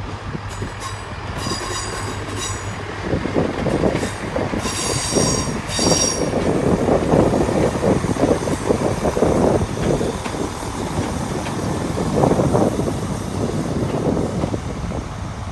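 GWR Turbo diesel multiple unit coming into the platform. Its wheels squeal in two short spells within the first six seconds, then clatter over the rail joints and pointwork for the rest of the passage.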